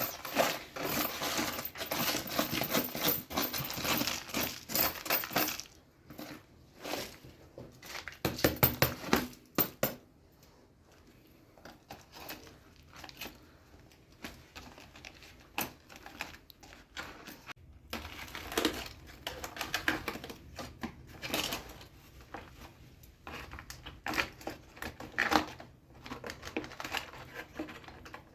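Dense, fast crinkling and clicking for about the first five seconds, then scattered light clicks and clinks: handling of the food and dishes.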